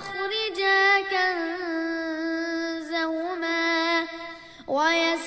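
A child's voice chanting Quran recitation in a melodic tajwid style, holding one long drawn-out vowel with slight wavers in pitch. It breaks for a quick breath near the end, then starts the next phrase.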